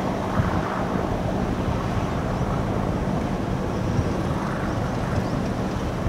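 Low, steady rumble of the RORO ship Miyarabi II's engines, with wind buffeting the microphone.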